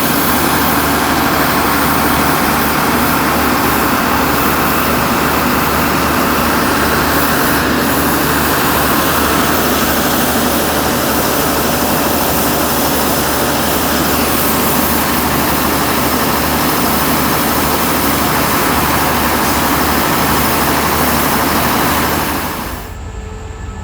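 A train's diesel engine running steadily at close range, loud throughout. It falls away abruptly near the end.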